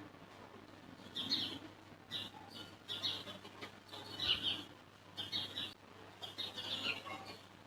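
Birds chirping in short bursts, repeating every second or so, over a faint steady low hum.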